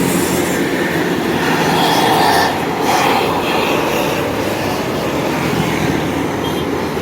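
A Scania K410 double-decker coach passing close by, its engine and tyre noise rising to a peak about two seconds in, then fading.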